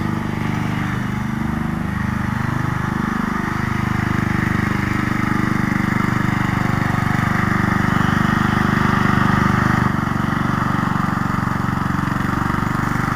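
The small engine of a homemade mower truck running under way. Its pitch rises and falls in the first few seconds, then holds steady and grows a little louder before easing off about ten seconds in.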